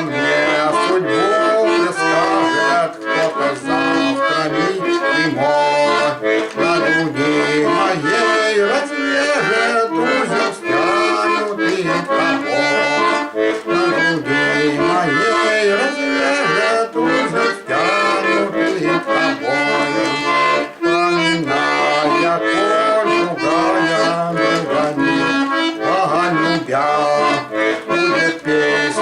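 Bayan, a Russian button accordion, playing an instrumental passage: a melody over full chords, steady and loud throughout.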